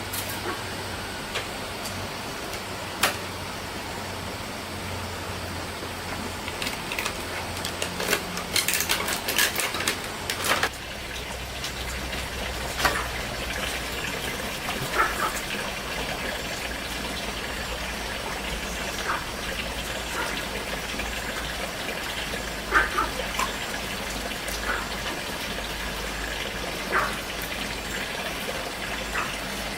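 Steady running water with scattered clicks and knocks, a quick cluster of them about eight to ten seconds in.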